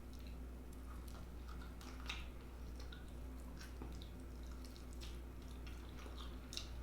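Close-miked chewing of chicken: irregular wet smacks and small mouth clicks.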